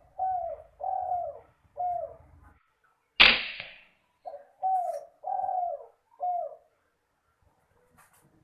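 Spotted dove (tekukur) cooing in phrases of three or four short notes, and a single sharp gunshot from an air rifle about three seconds in, the loudest sound; the cooing takes up again about a second after the shot.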